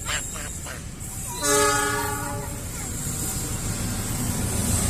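Train horn sounding one blast of about a second, about a second and a half in, followed by the rumble of the approaching train growing steadily louder.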